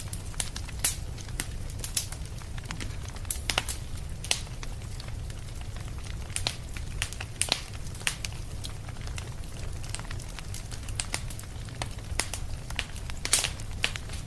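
Fireplace fire crackling, with irregular sharp pops, several a second, over a steady low rumble; one of the loudest pops comes near the end.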